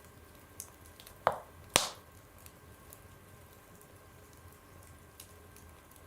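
Wood fire crackling in a stove: a few faint crackles, and two sharp loud pops about half a second apart, a little over a second in.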